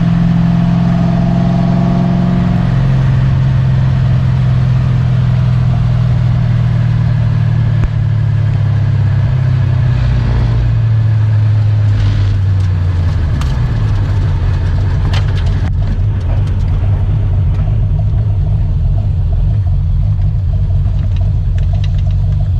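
Car engine running at speed with road noise, a steady low drone. Its pitch drops about three seconds in and falls again about twelve to thirteen seconds in.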